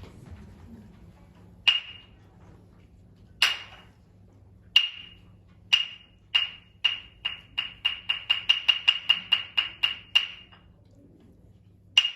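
Wooden clappers (hyōshigi) struck: a few widely spaced sharp claps, then claps that speed up into a rapid run of about twenty, and then one final clap. The speeding-up run is the traditional signal that the performance is beginning.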